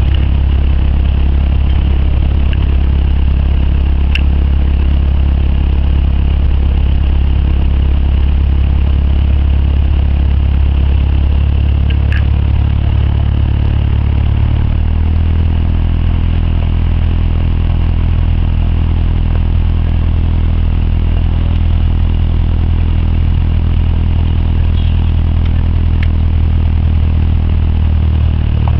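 Cessna 172's piston engine and propeller running steadily, a loud low drone heard from inside the cabin. About halfway through, the engine note shifts slightly as the power changes, then holds steady.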